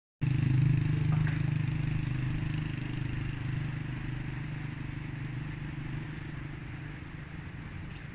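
A motor vehicle's engine running with a steady low hum that starts suddenly and then grows gradually fainter.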